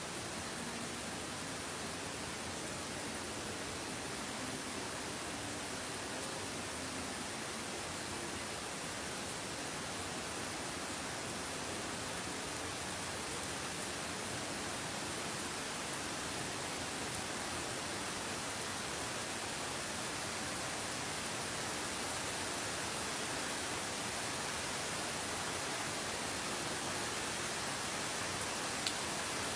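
Steady, even hiss with no distinct events, growing slightly louder over the whole stretch, with a couple of faint clicks near the end.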